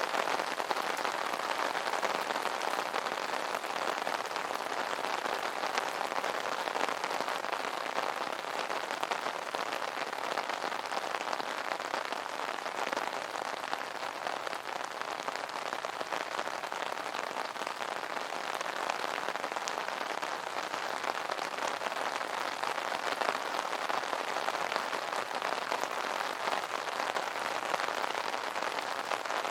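Steady light rain falling on an umbrella canopy: a dense, even patter of many small drops.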